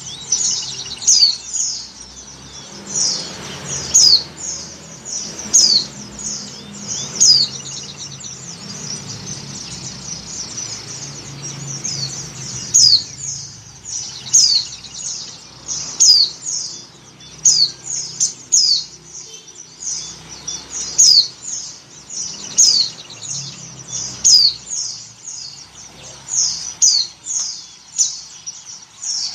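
White-eye (pleci) calling: a run of short, high chirps, each a quick downward sweep, repeated about once or twice a second with softer twittering between them. These are the calls of a female in breeding condition, used to call in males.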